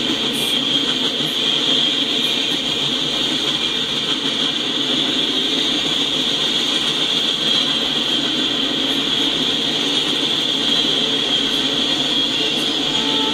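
Double-stack intermodal container train rolling past, a steady noise of steel wheels on the rails.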